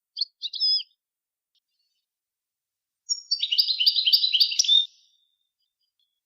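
Songbird song from a bird-tutoring recording: a few short call notes about a quarter of a second in, then a fast trilled phrase of repeated high notes lasting about two seconds.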